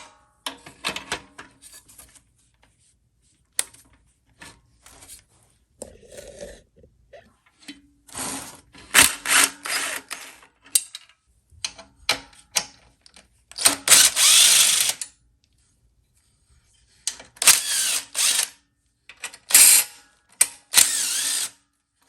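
Socket ratchet wrench clicking in several bursts of rapid clicks with pauses between, as the bolts holding the headlight motor are turned out.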